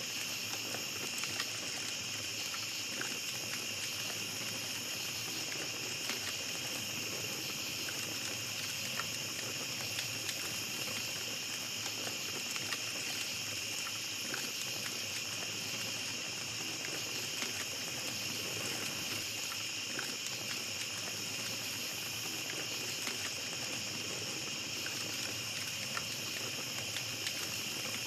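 A steady, unbroken chorus of night insects held on high pitches, over the light, scattered crackle of a small campfire.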